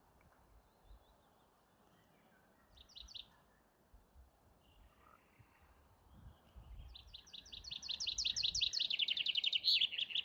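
A songbird singing: a short burst of a few quick notes about three seconds in, then a long, fast trill of repeated notes that starts about seven seconds in and grows louder to the end.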